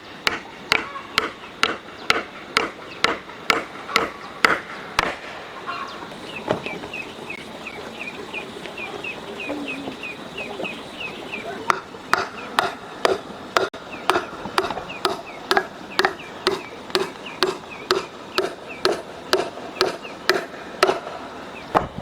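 Steady chopping, about two strokes a second, that stops for several seconds midway and then resumes. During the pause a run of short high peeps, like chicks, is heard.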